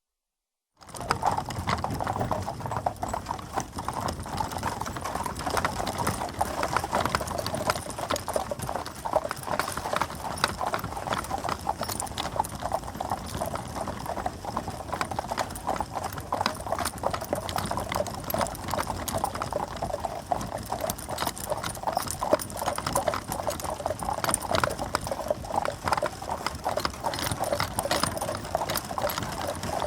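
A team of four horses clip-clopping as they draw a stagecoach, starting about a second in: a steady, dense run of hoofbeats.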